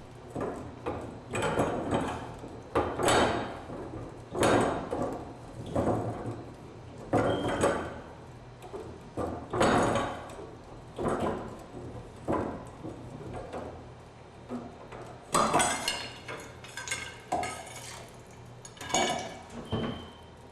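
Mini tube cutter being turned around a copper pipe: a metallic scraping stroke about every second and a half, with a faint ring of metal now and then.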